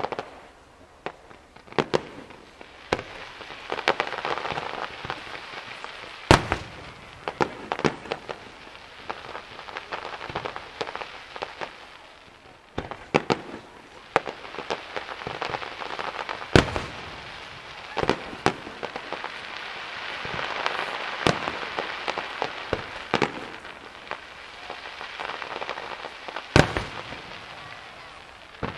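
Professional fireworks display: aerial shells bursting with sharp bangs at irregular intervals, the loudest about six, sixteen and twenty-six seconds in. Between the bangs a dense hiss from crackling, glittering effects swells and fades.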